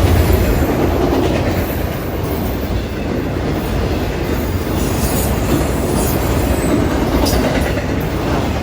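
Freight train passing at track speed: a steady, loud rolling rumble of the cars' wheels on the rails.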